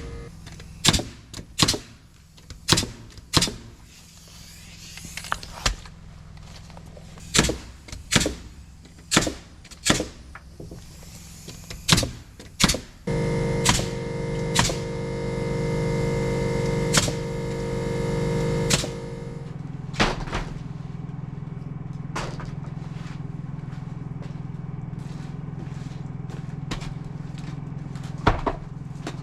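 Building work: a series of sharp knocks, roughly one or two a second, then a motor runs for about six seconds from a little under halfway in. A steady low hum and a few more knocks follow.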